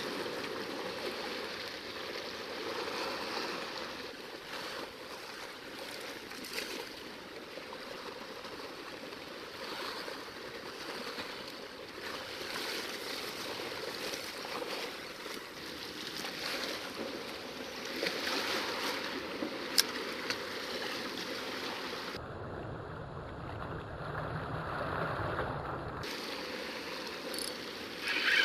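Sea water washing and lapping against shoreline rocks, an uneven wash that swells and eases.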